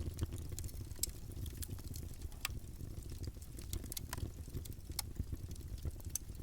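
Campfire burning with a low steady rumble of flames and irregular sharp crackles and pops from the burning wood, several louder snaps spread through.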